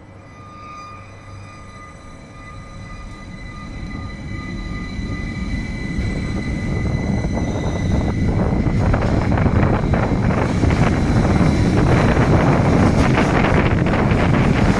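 Rhaetian Railway electric train pulling away and gathering speed. A steady high whine at the start fades as the rumble of the running train grows steadily louder.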